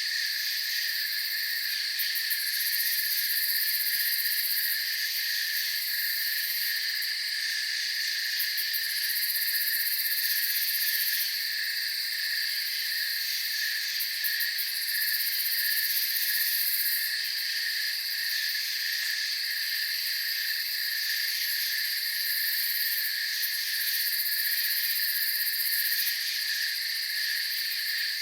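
Night chorus of crickets trilling steadily in several overlapping high-pitched layers, the highest ones coming and going every few seconds.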